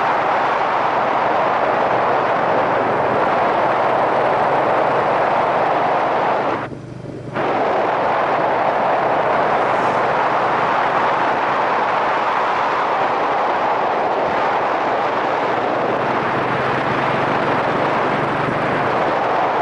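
Loud, steady wind rushing over a helmet-mounted microphone while riding, with the low, steady note of a Yamaha SRX400's single-cylinder engine underneath. The wind noise drops away for about half a second around seven seconds in.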